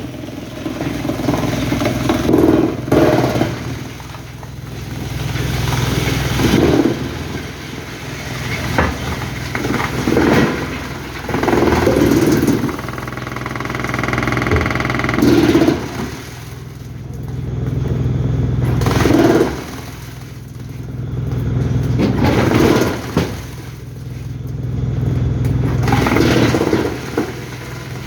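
Heavy engine running steadily, its note swelling and easing every few seconds as if under changing load, with knocks now and then and a brief higher whine about halfway through.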